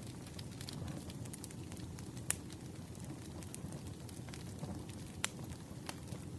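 Campfire crackling: a steady low rumble of burning wood with scattered small ticks and two sharp pops, about two seconds in and about five seconds in.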